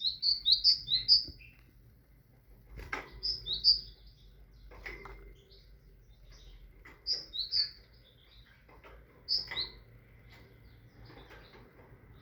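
Great tit singing: four short phrases of quickly repeated high, bright notes with pauses between them. There are a couple of soft knocks between the phrases, the clearest about three seconds in.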